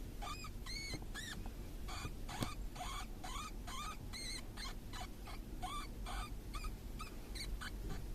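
Baby Djungarian hamster pups squeaking: a rapid series of short, high-pitched squeaks that each rise and fall in pitch, about two to three a second.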